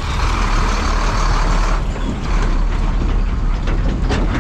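A heavy truck pulling a trailer drives past, a loud low engine rumble with tyre and road noise that eases about halfway through.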